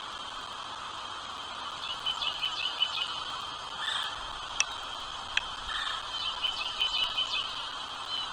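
Nestling birds begging, with clusters of short, high, rapid cheeps over a steady high background drone. Two sharp clicks come in the middle.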